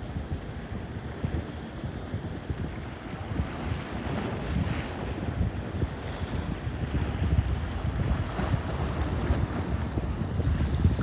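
Wind buffeting the microphone over the continuous wash and slosh of sea waves, an uneven low rumble with no pauses.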